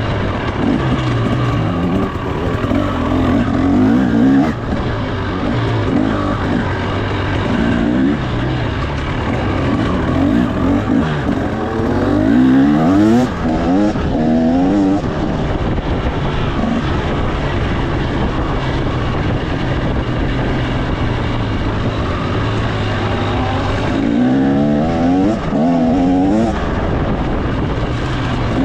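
2025 KTM 300 XC two-stroke dirt bike engine running under way, its pitch climbing in repeated sweeps as the throttle is opened and the bike accelerates through the gears.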